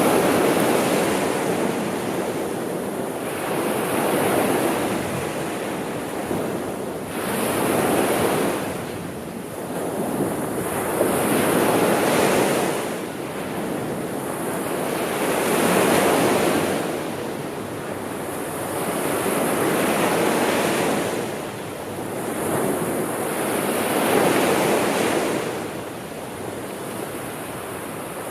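Sea waves washing in and drawing back in a steady rhythm, each wave swelling and fading about every four seconds.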